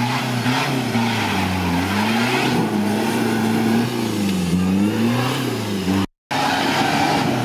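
Toyota Land Cruiser engine revving hard while the 4x4 drives through deep mud, its pitch rising and falling over and over with the throttle. The sound cuts out for a moment about six seconds in, and the engine note drops off near the end.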